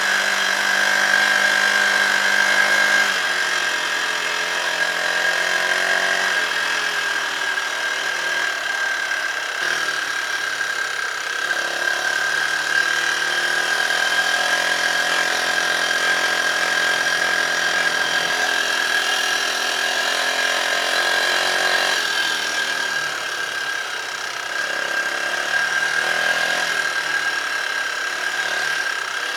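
Dirt bike engine running as the bike is ridden, its pitch rising and falling with the throttle, with a steady high whine over the top.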